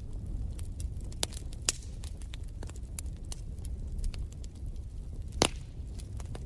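Wood fire crackling in a fireplace: irregular sharp pops and snaps over a low steady rumble, with one loud pop about five seconds in.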